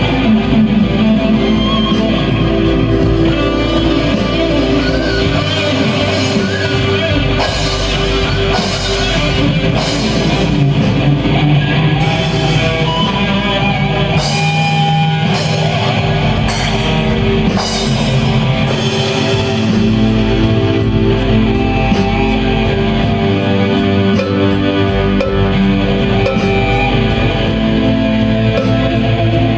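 Blues-rock band playing an instrumental passage, electric guitar to the fore over bass and drums, with cymbal crashes through the middle.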